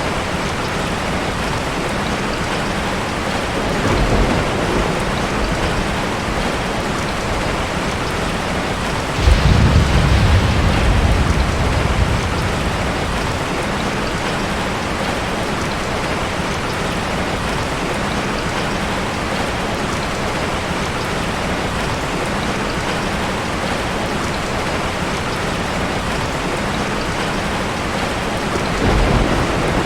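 Steady heavy rain falling, with low rumbles of thunder three times: briefly about four seconds in, loudest and longest from about nine to twelve seconds in, and again near the end.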